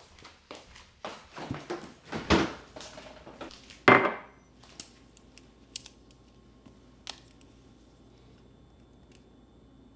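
Dishes and cutlery clattering as they are handled, ending in a louder clank about four seconds in that rings briefly. A few light taps follow.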